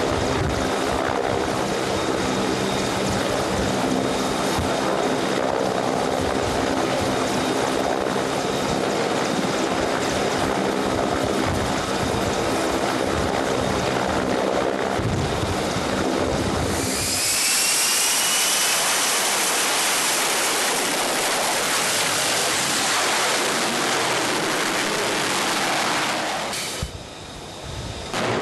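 Steady engine drone with several held tones. A little over halfway it gives way to a loud jet-engine rush with a rising whine, which cuts off near the end.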